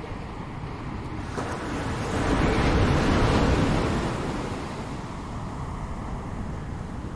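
Ocean waves breaking on a shore: one wave swells about a second in, crashes at its loudest a couple of seconds later, and washes back out, with a steady surf rush and low wind rumble under it.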